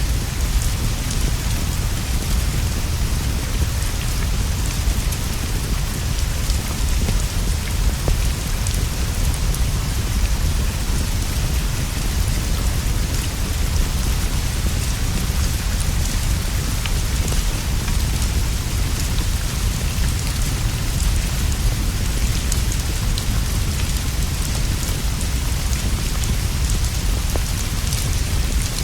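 Steady rain falling on leaves and a roof, an even hiss over a deep low rumble, with scattered light ticks of drops throughout.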